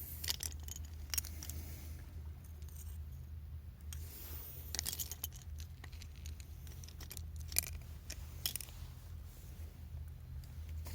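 A knife whittling wood: short, irregular scraping cuts, a few at a time, over a steady low hum.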